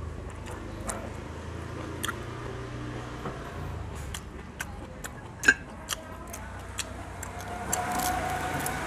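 A person chewing crispy fried shrimp close to the microphone: irregular crisp crunches and mouth clicks, the loudest crunch about five and a half seconds in.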